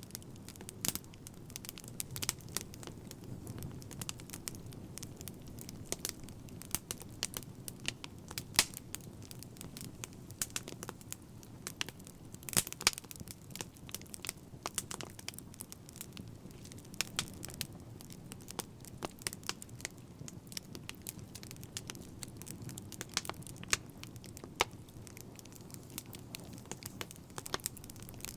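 Wood fire crackling: a soft steady hiss under many irregular sharp pops and snaps.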